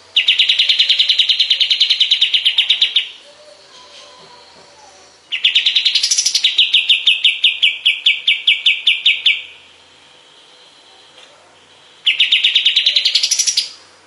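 Kapas tembak (pied triller) singing: three fast trills of rapidly repeated high notes. The middle trill is the longest and slows toward its end.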